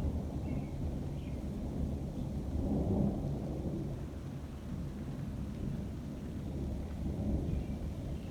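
Thunder rumbling low and continuously, swelling about three seconds in and then easing off.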